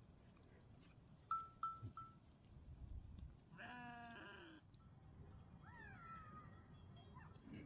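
A goat bleats once, a wavering call about a second long, a little past the middle. Before it come three short, sharp high chirps in quick succession, and after it a fainter falling call.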